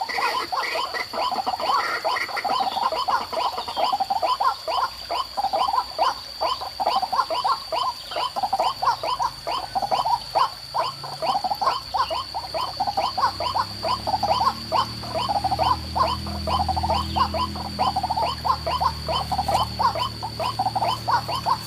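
White-breasted waterhen (ruak-ruak) calls repeated in a fast, even run, about three a second. A steady high whine runs alongside, and a low hum comes in about two-thirds of the way through.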